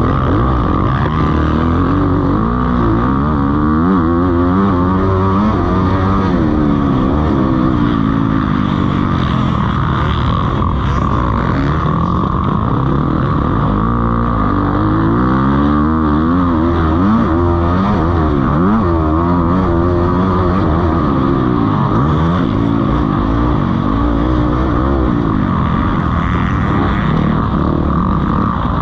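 Several motocross bikes racing, their engines revving up and down and overlapping, with pitch rising and falling as they accelerate and pass.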